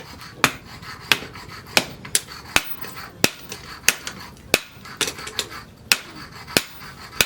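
Hand hammer striking steel on an anvil in steady forging blows while a knife is forged, about a dozen sharp strikes roughly one every two-thirds of a second.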